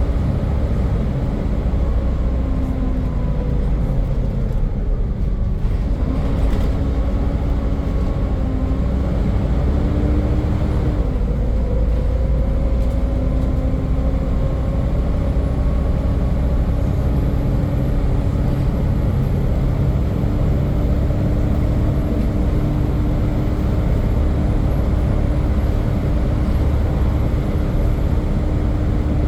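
Volvo B7 double-decker bus running under way, its engine's low rumble topped by the loud vacuum-cleaner-like whine that bus enthusiasts call a 'hoover'. The whine's pitch dips and shifts a few times early on and near the middle, then holds steady.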